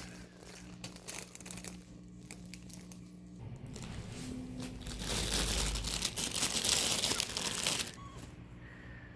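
Crinkling, rustling noise with scattered light clicks, swelling into a louder continuous rustle for about three seconds in the second half.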